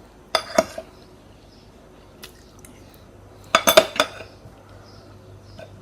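Metal cutlery clinking and scraping against a plate: a short cluster of clinks near the start and a louder cluster about halfway through, with a few faint single ticks between.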